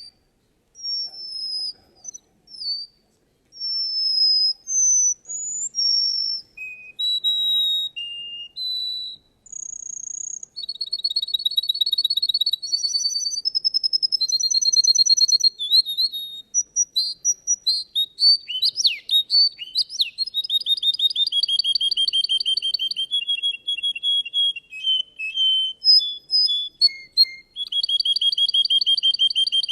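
Russian canary singing: a run of clear whistled notes gliding up and down, turning about a third of the way in into long, fast rolling trills and chopped repeated phrases.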